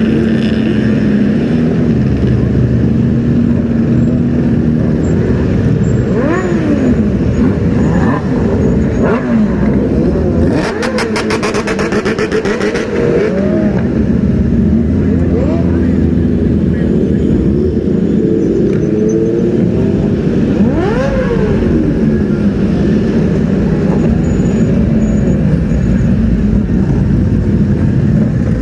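Sport motorcycles revving and riding past in busy traffic, with repeated short revs that rise and fall in pitch over a steady engine rumble. About ten seconds in comes a rapid rattling burst that lasts a couple of seconds.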